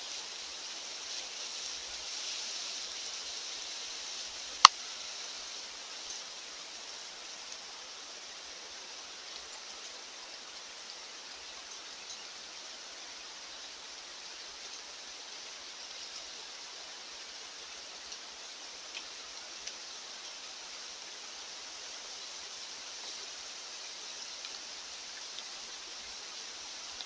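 Steady hiss of wind on a foggy mountainside, with faint scattered ticks and one sharp click about four and a half seconds in.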